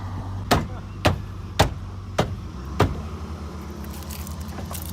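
Five sharp knocks, evenly spaced a little over half a second apart, over a steady low engine hum.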